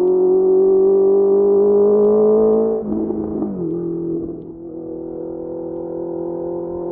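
Honda CBR650R's inline-four engine through a Mivv MK3 exhaust, pulling with the revs climbing steadily, then a shift about three seconds in that drops the pitch, after which it runs steadily at lower revs.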